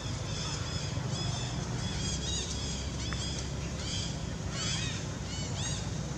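Birds chirping: a run of short, arched, high chirps, about two a second, over a steady low rumble.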